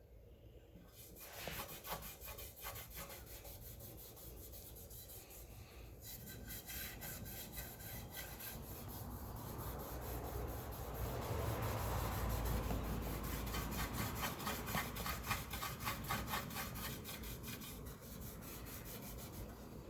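Hand rubbing and scrubbing the painted top of a Honda trash pump with PB Blaster: quick, steady back-and-forth strokes that grow louder toward the middle and ease off near the end.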